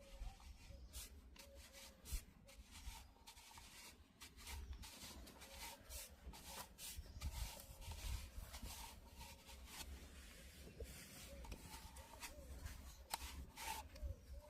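Faint rubbing and scraping with many light clicks and taps from hands working on a PVC pipe.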